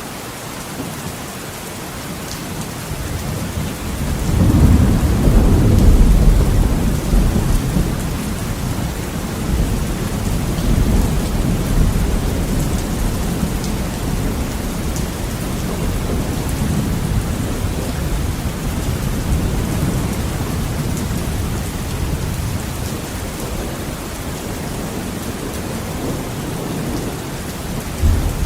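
Heavy rain falling steadily on a window, with a long roll of thunder swelling about four seconds in, loudest a couple of seconds later, then rumbling on and fading slowly under the rain.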